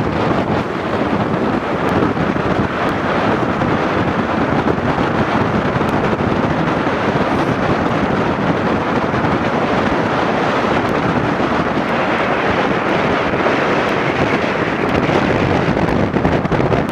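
Strong wind buffeting the microphone, a loud, steady, rough rushing noise.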